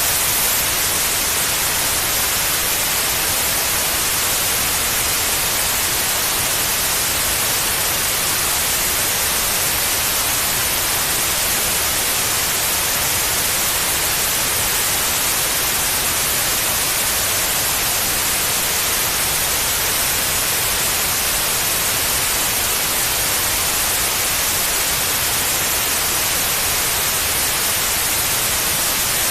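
Steady white noise: an even, unchanging hiss, strongest in the high range, played to soothe a baby to sleep.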